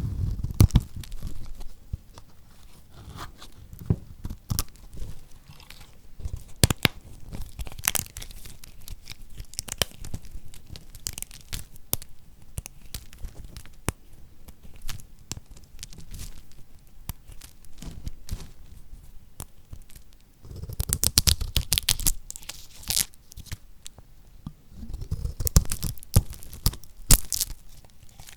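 Knife cutting through bars of lacquered soap: crisp crunching and crackling as the hard coating breaks. The crunching runs on and off, with two busier spells in the last third.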